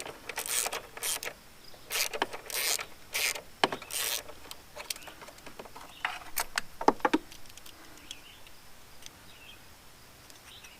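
Hand-work noises from freeing a stuck car battery in an engine bay: a run of short scraping strokes for about four seconds, then a few sharp clicks and knocks, fading to faint handling sounds.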